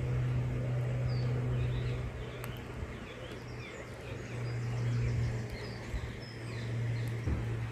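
Wild birds chirping and singing, many small scattered calls, over a steady low hum that swells and fades, the loudest thing throughout.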